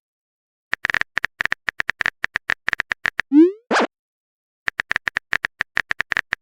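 Keyboard typing sound effect, a run of quick clicks, then a short rising blip and a pop like a chat message being sent, then the typing clicks start again. Digital sound effects with dead silence between them.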